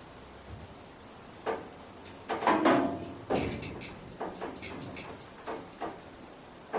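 A series of knocks and clunks as the suspended truck cab and its crane are shifted and set down: one about a second and a half in, a loud cluster around three seconds in, then lighter taps.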